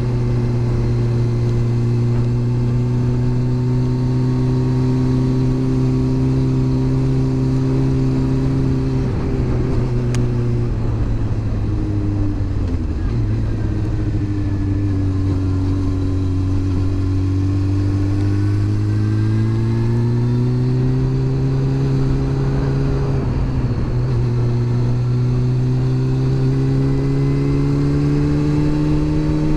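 Honda CB400 Super Bol d'Or's inline-four engine running on the move over a steady rush of wind. The engine note drops about ten seconds in as the bike slows for a bend and holds low for several seconds. It rises again from about eighteen seconds in and climbs once more near the end as the bike accelerates.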